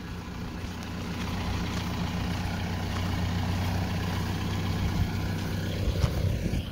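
Mahindra Roxor's 2.5-litre turbodiesel pulling steadily under load while towing a tractor, a deep, grunting engine note that builds slightly over the first couple of seconds. A single knock comes about six seconds in.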